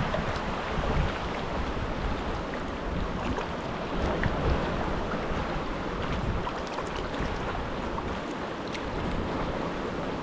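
Wind buffeting the microphone over choppy sea water, with a gusty low rumble and small splashes and drips scattered through.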